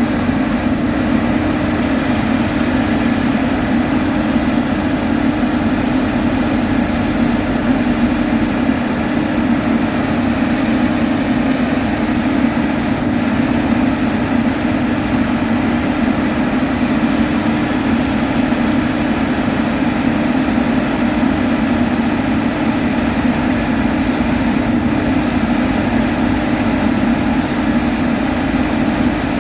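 Heavy diesel road-construction machinery running steadily, a loud, even engine drone with a strong low hum.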